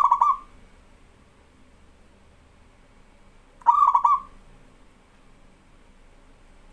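Zebra dove (perkutut) cooing: short phrases of quick rippling notes. The end of one phrase is heard at the very start and a full phrase about three and a half seconds in.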